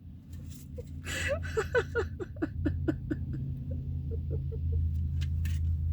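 A woman laughing and crying with joy in a quick run of short, breathy bursts that fade out after about four seconds, over a steady low hum.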